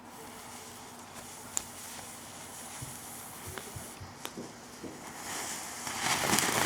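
Faint steady hiss with a few scattered clicks, then a louder hissing builds up near the end as the lit firework starts.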